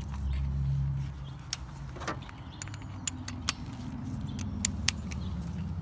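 Light metallic clicks and clinks of hand tools, a socket wrench with an extension being handled and fitted, a handful of separate sharp ticks over a low steady hum.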